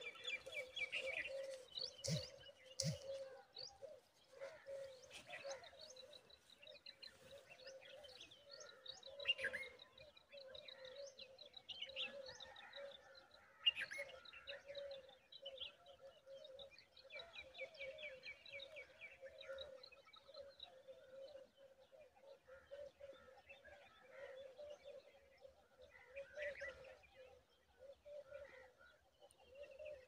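Rock chats chirping faintly: quick trains of high chirps come and go, with a few sharper single chirps between them.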